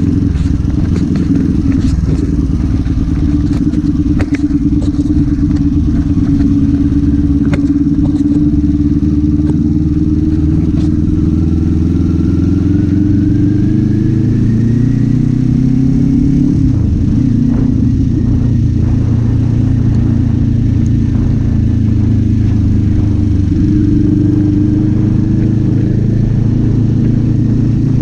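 Kawasaki Z400 parallel-twin engine and exhaust running under way. The revs climb steadily for several seconds, then drop sharply a little past halfway and settle again.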